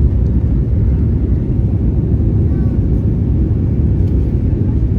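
Steady low rumble of an Airbus A321neo in flight, engine and airflow noise heard from inside the passenger cabin.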